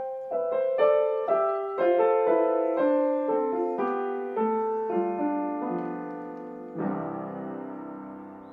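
Piano playing a short, simple melody of single struck notes, ending with a chord that is held and left to ring out and fade.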